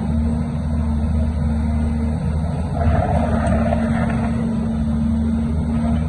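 Diesel engine of heavy earthmoving machinery running steadily, with a rougher, louder surge about three seconds in.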